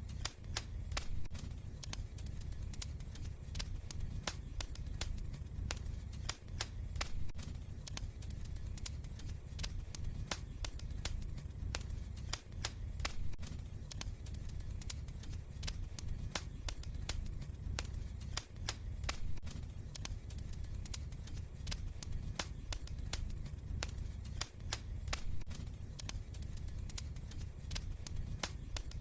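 Fireplace fire crackling: frequent, irregular sharp pops and snaps over a steady low rumble of burning.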